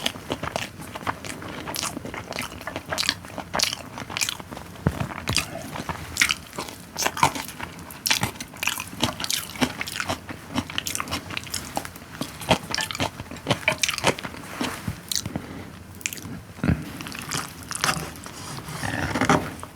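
Close-up eating sounds: a person biting and chewing food, with many short clicks and crunches throughout and a longer, denser run of noise near the end.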